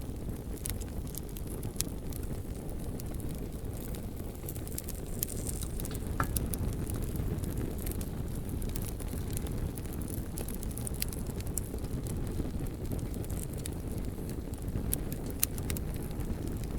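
Bonfire burning: a steady low rush of flames with sharp crackles and pops of burning wood scattered all through.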